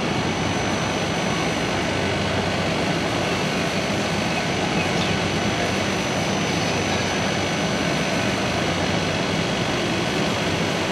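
Railway locomotive running with a steady mechanical drone and a low hum, unchanging throughout.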